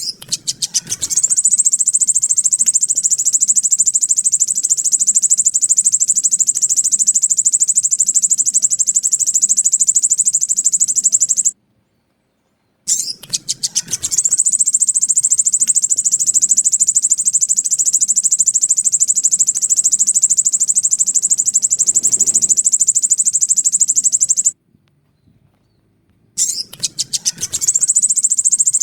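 Crimson sunbird (sogon) song: a high-pitched, very rapid trill that starts with a few spaced notes, speeds up and runs on for about ten seconds at a stretch. It breaks off abruptly twice, each time restarting after a second or two of silence.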